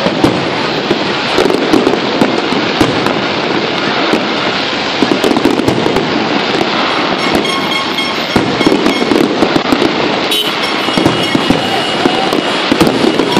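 Aerial fireworks display bursting overhead: a dense, unbroken run of bangs and crackles, many reports a second.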